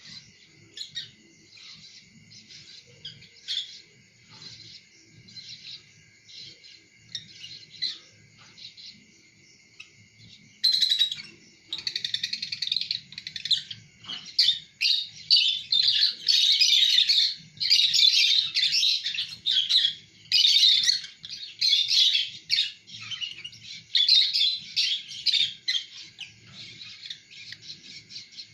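Lovebirds chirping: faint, scattered chirps at first, then from about ten seconds in, loud, rapid, near-continuous chattering.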